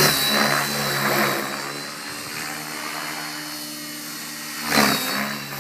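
RC helicopter flying, its motor and rotor giving a steady hum with a high whine. It grows fainter after about a second and a half, then louder again near the end.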